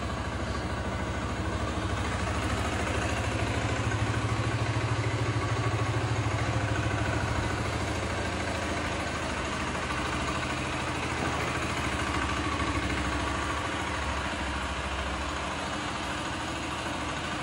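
Zontes C125's 125 cc single-cylinder four-stroke engine idling steadily through its stock Euro 5 exhaust, a note that is not very deep.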